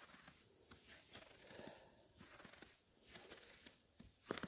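Near silence with faint soft rustles, and a couple of sharp clicks near the end.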